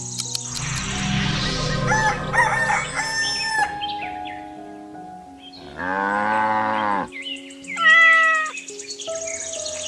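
Chicken and rooster sound effects over light background music: short clucking calls about two to three and a half seconds in, a rooster crowing for about a second around six seconds in, and another short call near eight seconds.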